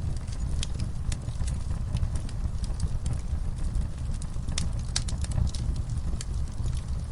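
Wood fire in a fireplace crackling and popping at irregular intervals over a steady low rumble of burning.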